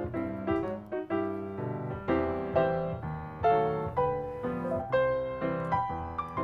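Background piano music: a calm run of single notes and chords, several a second, each ringing out and fading.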